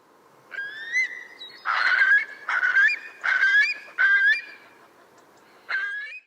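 Curlew calling: a series of about six pitched calls, each rising at its end, most of them packed close together in the middle.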